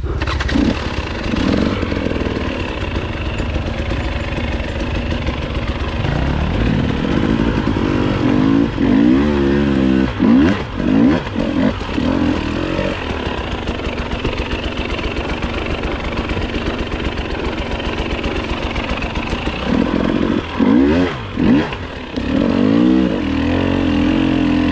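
Enduro dirt bike engine running low and steady at first. From about a third of the way in, the revs climb and drop sharply several times as the throttle is opened and shut, and again near the end.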